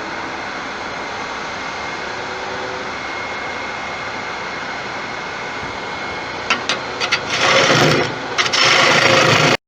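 Wood lathe spinning a large tiger wood bowl blank while a turning tool cuts into it: a steady hiss and run at first, a few sharp ticks about six and a half seconds in, then a much louder rasping cut for the last two seconds that stops abruptly.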